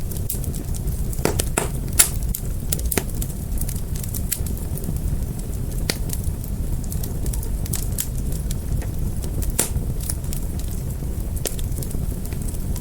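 Wood fire burning: a steady low rumble of flames with irregular sharp crackles and pops, the loudest pop about two seconds in.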